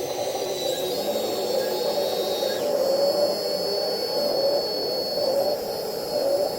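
Radio-controlled scale model excavators running, their hydraulic pumps and motors making a steady high whine over a lower hum that wavers as they work.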